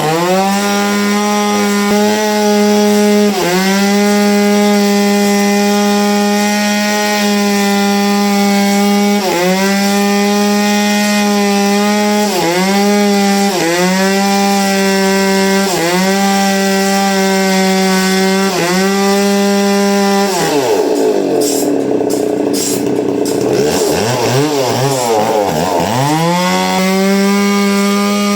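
Power saw cutting through wood. Its steady pitch dips briefly again and again as it bites, then sags deeply and wavers for several seconds under heavy load before climbing back to speed near the end.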